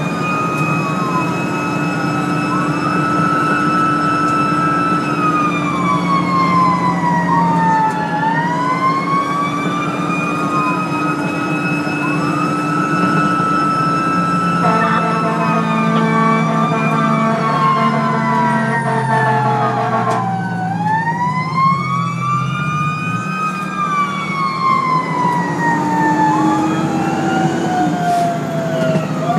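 Fire engine siren wailing in slow rising and falling sweeps, with a second siren overlapping out of step. About halfway through, an air horn sounds for about five seconds, over the low drone of the truck's engine.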